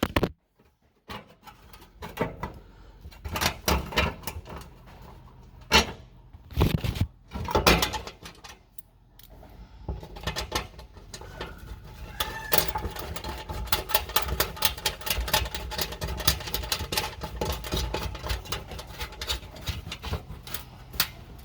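Knocks, clicks and rattles of the under-engine service hatch being handled and put back in place by hand. Separate knocks come every second or so at first, then give way to a run of rapid small clicks about halfway through.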